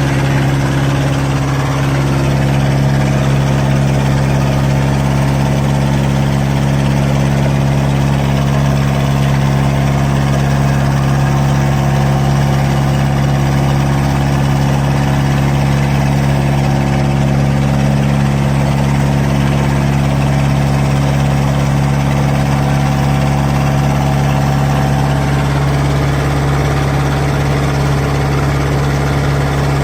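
A squid fishing boat's engine running steadily at a constant speed, an even low drone with no change in pitch.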